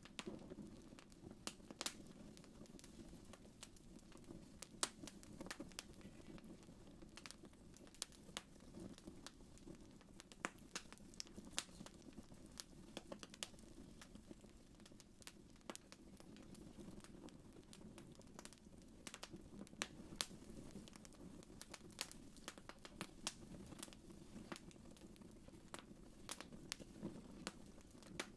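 Wood fire crackling: faint, irregular sharp pops and snaps over a soft, steady low rumble.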